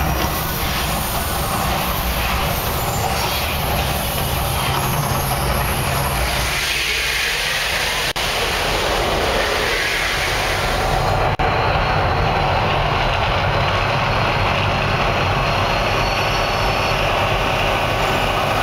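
Mirage volcano eruption show: a loud, steady rumble and rush of noise. The highest hiss thins out about eleven seconds in.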